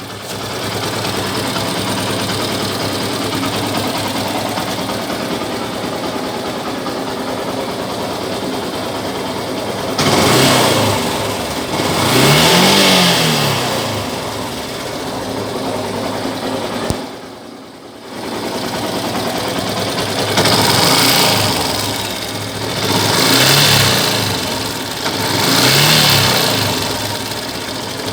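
Motorcycle engine idling steadily, then revved several times with the throttle, each rev rising and falling in pitch, from about ten seconds in. It runs without timing chain rattle after a longer cam chain tensioner was fitted, which the owner takes as the rattle being fixed.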